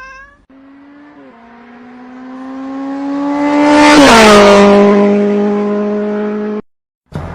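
A motor vehicle driving past: its engine note grows louder as it approaches, then drops in pitch as it goes by, the classic pass-by Doppler fall. It holds a lower steady tone before cutting off abruptly.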